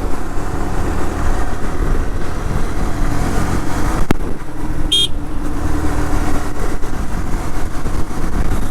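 Motorcycle riding through traffic, with steady wind rumble on the rider's microphone; a short horn toot about five seconds in.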